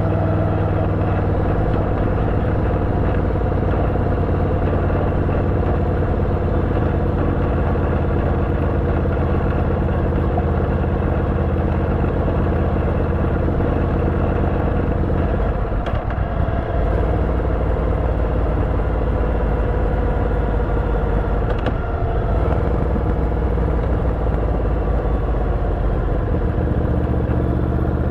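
Yamaha VMAX 1700's V4 engine running steadily through an Akrapovič exhaust fitted with a dB-killer. The engine note dips and changes briefly about halfway through, and again more lightly about three-quarters of the way in.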